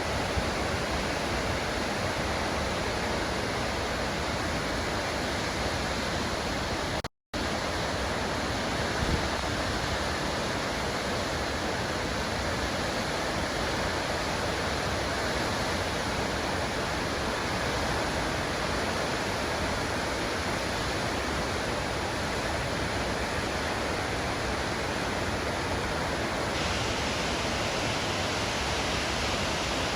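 Waterfall rushing: a steady, even wash of falling water, cut off for a moment about seven seconds in.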